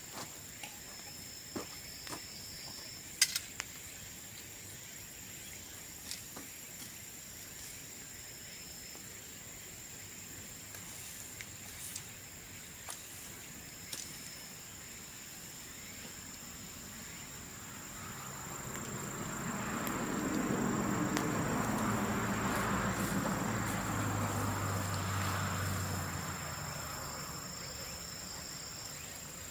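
Burning bamboo crackling with scattered sharp pops, the loudest snap about three seconds in, over steady high-pitched insect trilling. In the second half a low droning sound swells up and fades away over about eight seconds.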